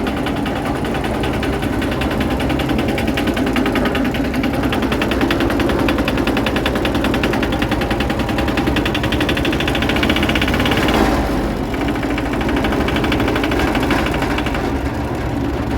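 Diesel engine running steadily with a fast, even knocking beat; the sound briefly dips about eleven seconds in, then carries on.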